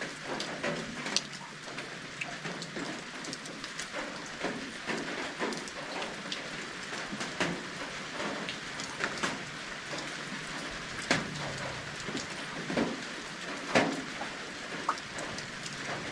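Rain falling in a steady patter, with many separate drops striking close by and a few louder strikes standing out.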